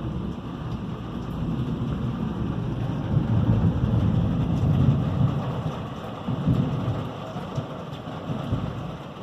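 Rolling thunder from an electrical storm, building to its loudest about halfway through and then dying away, over steady rain.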